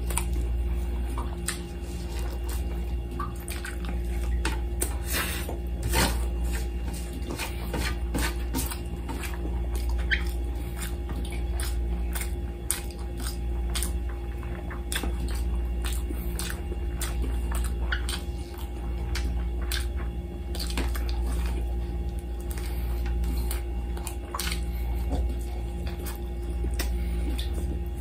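Close-up eating sounds: wet chewing and lip smacks from a mouthful of lamb chop and rice, a dense run of short clicks, over a steady low hum.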